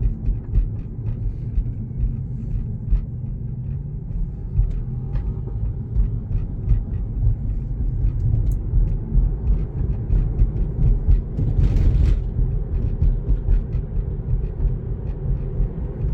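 Steady low rumble of tyres on the road heard inside a Tesla's cabin while it drives, with no engine note since the car is electric. A brief louder rush comes about three quarters of the way through.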